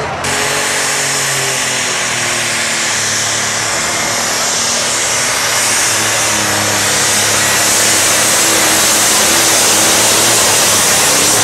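Competition pulling tractor's engine running flat out under load while dragging the sled down the track, a steady loud roar with an engine pitch that drifts slowly and grows a little louder toward the end.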